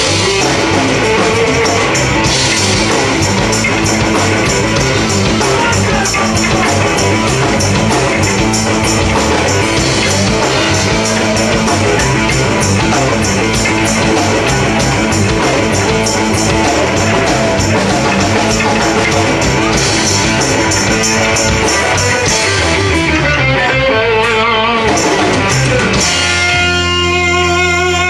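Rock band playing loud, with electric guitar and drum kit. Near the end the drums stop and held guitar notes ring on.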